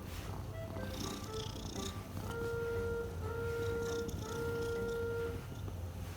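A Norwegian Forest Cat purring steadily under background music. The music plays short plinking notes, then three long held tones through the middle.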